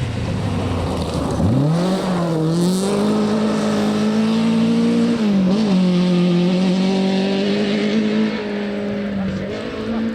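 Rally car engine accelerating hard, its note climbing steeply about a second and a half in, then held at high revs with two brief dips.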